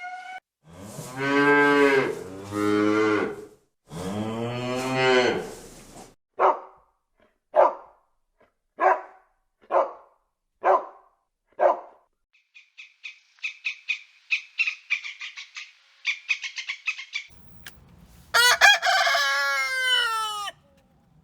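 Farm animal calls one after another. First come three long calls with low, wavering tones, then six short calls about a second apart, then a quick run of high chirps. Near the end there is a falling call like a rooster crowing.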